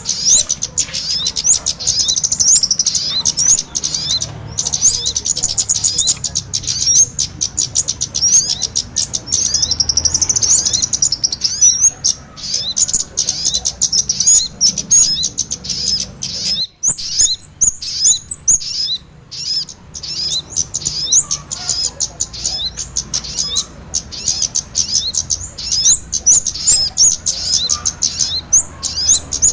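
Bird-lure recording of kemade and sogon birds calling together: dense, rapid, high-pitched chirping and twittering, with a brief break about seventeen seconds in.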